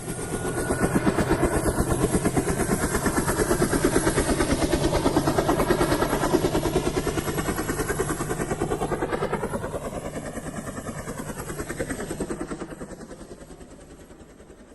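A fast, even pulsing engine sound from a passing vehicle: it comes in loud, holds, swirls in pitch as it passes, then fades away over the last few seconds.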